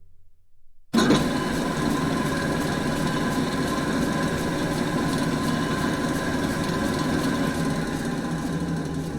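Large drill press motor running steadily with a whir of held tones, starting abruptly about a second in after a short silence.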